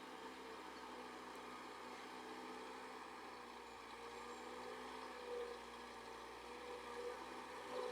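Engine of a UAZ-452 'bukhanka' van running at a distance, a steady drone that grows slightly louder toward the end as the van pulls.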